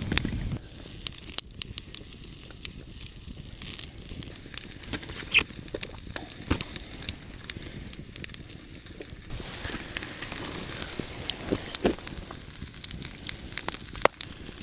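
Bonfire crackling, with irregular sharp pops over a steady hiss.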